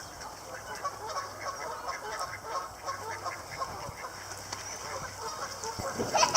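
Geese honking: many short calls overlapping throughout. Just before the end comes one loud, sharp sound.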